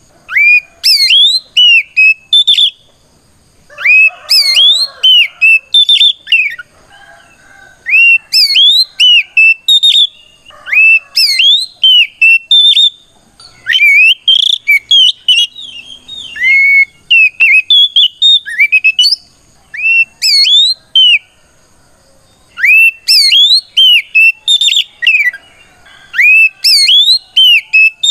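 Oriental magpie-robin singing loud phrases of clear, rising whistled notes, repeated in runs of a few seconds with short pauses between. It is the full-voiced 'ngeplong' song that calls out a rival.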